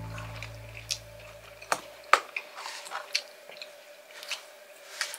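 A person chewing a mouthful of salchipapa (fries and hot dog) with scattered short, sharp clicks, the loudest about two seconds in. A background music chord dies away over the first two seconds.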